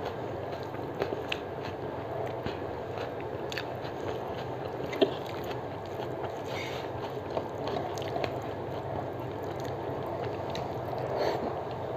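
Close-up eating sounds: chewing a mouthful of rice mixed with aloo posto, with fingers clicking and scraping on a metal plate while mixing the rice. The sharpest click comes about five seconds in, over a steady low hiss.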